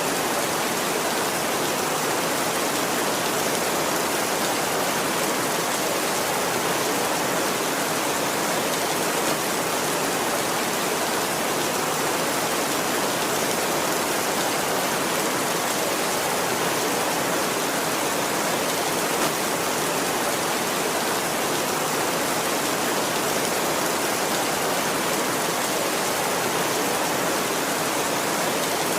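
Heavy rain falling, a steady, even hiss with no change in strength.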